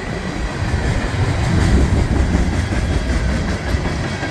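Norfolk Southern freight train of hopper cars rolling steadily past, a loud rumble with wheels clicking over the rail joints. The cars ride high on their springs, which suggests the train is running empty.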